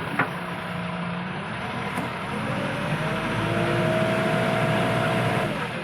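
JCB backhoe loader's diesel engine running, its pitch and loudness rising from about halfway in as it works under load, then holding steady and dropping back near the end.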